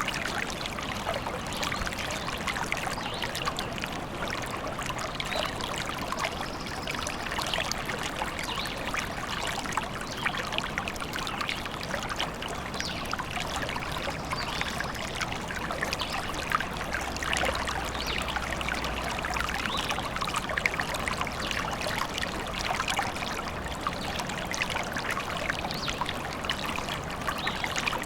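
Forest stream trickling and splashing steadily.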